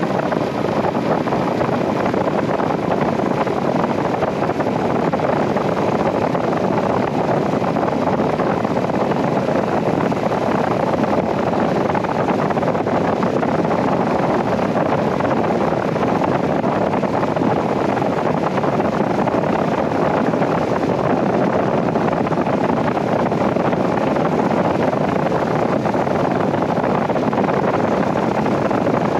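Steady rush of wind and road noise on the microphone of a Royal Enfield Himalayan 411 motorcycle riding at speed. The noise is even throughout, with no distinct engine note standing out.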